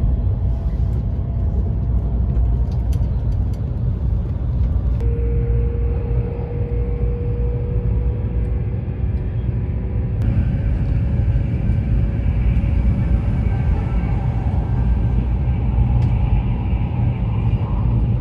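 Taiwan High Speed Rail train running at speed, heard from inside the car: a steady low rumble with faint high tones that come in about five seconds in and change about ten seconds in.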